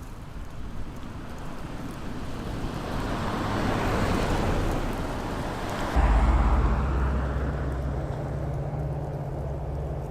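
A car driving past on a snowy road: its tyre noise swells and then fades away, with a low rumble that comes in suddenly about six seconds in.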